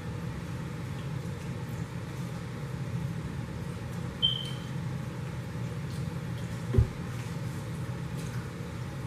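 Steady low hum of background noise, with a few faint ticks, a brief high squeak about four seconds in and a dull thump near seven seconds.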